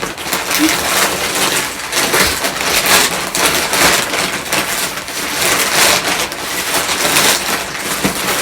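Plastic packaging crinkling and rustling as it is handled and pulled open, in irregular bursts with no let-up.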